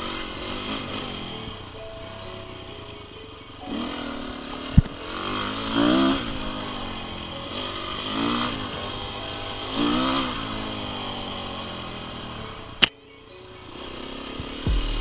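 Off-road enduro motorcycle engine revving up and dropping back several times as it is ridden. Two sharp clicks stand out, one about five seconds in and a louder one near the end.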